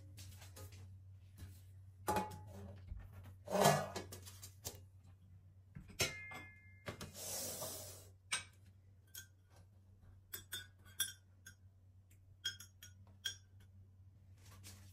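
Dishes, glass and cutlery being handled: scattered clinks and small knocks, a few of them briefly ringing, with a short rustling hiss about seven seconds in. A faint steady low hum lies underneath.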